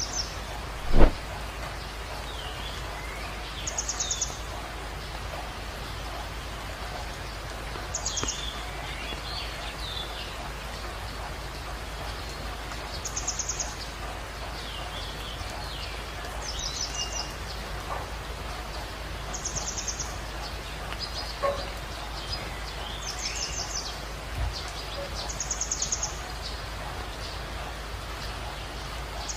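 Birds chirping, with short high trills every few seconds and lower gliding chirps between, over a steady low hum. A single sharp knock about a second in.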